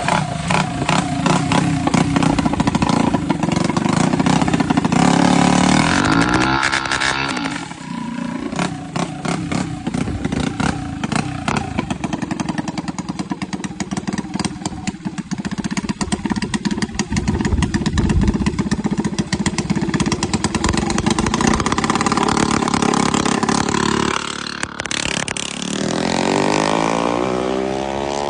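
Small engine of a racing mini trike running hard and revving on a drag strip, with a rapid clattering firing note; about six seconds in the pitch drops, and near the end it climbs sharply as the engine revs up.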